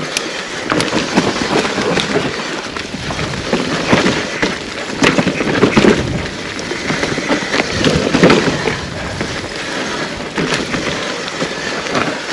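Mountain bike riding down a rough forest trail: steady tyre noise on dirt with frequent knocks and rattles from the bike over bumps, rougher and louder in a couple of stretches.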